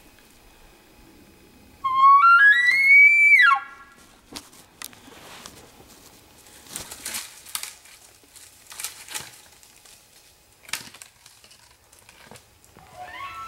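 Elk bugle: one high whistling call that rises in steps to a peak and then drops off sharply, about two seconds in. Faint scattered clicks and rustles follow, and another rising bugle begins at the very end.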